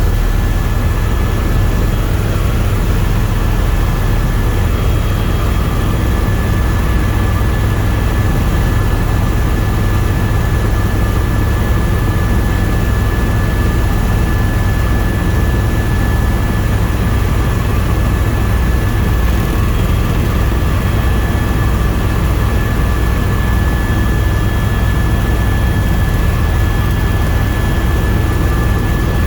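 Tour helicopter in flight, heard from inside the cabin: a loud, steady rotor and turbine drone with a thin steady whine above it.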